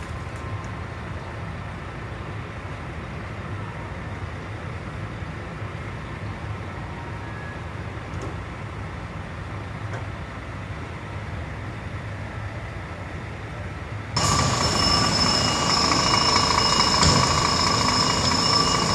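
Heavy road-works machinery running with a steady low rumble. About 14 seconds in, the sound jumps abruptly louder and a steady high-pitched mechanical whine joins the rumble.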